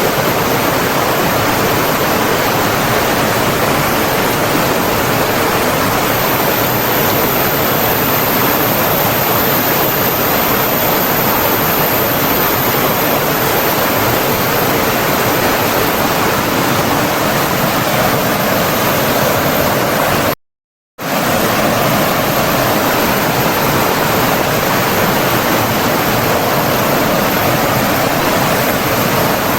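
Flowing water rushing steadily, a dense even noise like a stream or waterfall, which cuts out to silence for about half a second some twenty seconds in and then resumes.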